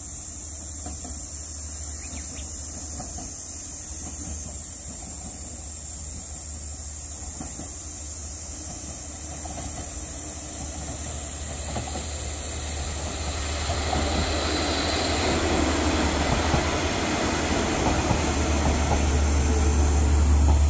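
Diesel train on the JR San'in Line crossing the new Amarube Bridge, its running noise growing steadily louder as it comes nearer, loudest near the end.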